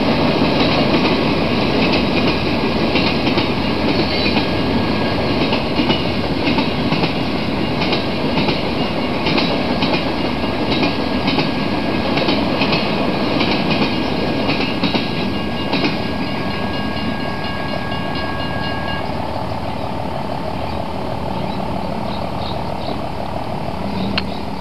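Freight cars of a Union Pacific manifest train rolling past at a grade crossing: a continuous rumble and clatter of steel wheels on the rails. A thin steady high tone rides over it and stops about two-thirds of the way through, and the rumble eases slightly after that.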